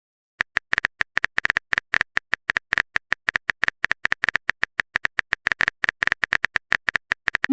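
Typing sound effect: a long, rapid run of short keyboard clicks, about eight a second and unevenly spaced, starting about half a second in.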